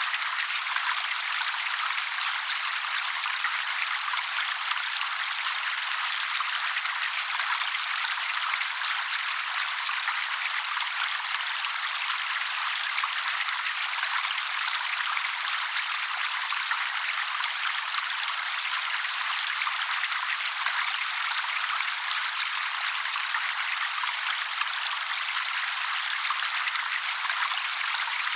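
Steady trickling and splashing water with no birdsong, thin and hissy with the low end cut away.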